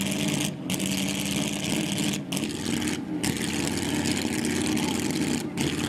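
Classic custom car's engine idling steadily with a low, even rumble, crowd noise behind it.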